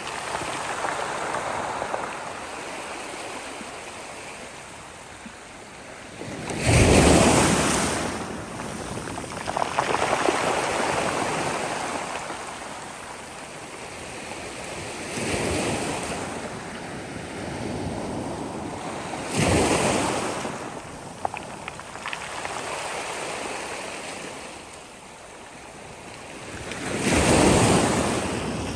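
Sea waves breaking and washing up the shore: a steady rush of surf with four louder crashes, several seconds apart, each swelling and fading over a second or two.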